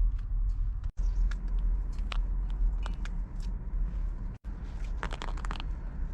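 Fresh food being broken apart by hand: scattered crisp cracks and tearing, densest in a cluster of crackles about five seconds in, over a steady low rumble.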